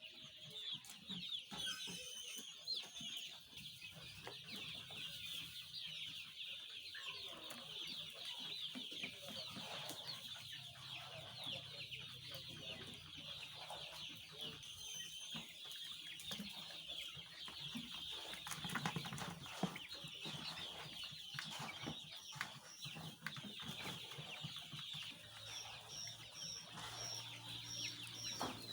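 A flock of young eight-week-old chickens calling all at once, a dense, steady high chatter of many overlapping calls. Near the end comes a run of short, evenly spaced high pips.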